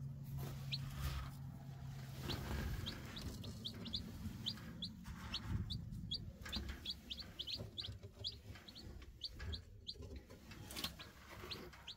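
Newly hatched chicks peeping: short, high peeps, a few at first, then several a second. A faint low hum sounds under them in the first couple of seconds.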